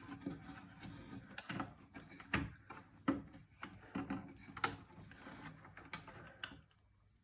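Computer parts and cables being handled in and against a wooden box case: irregular knocks, scrapes and rubbing, with about half a dozen sharper knocks, stopping shortly before the end.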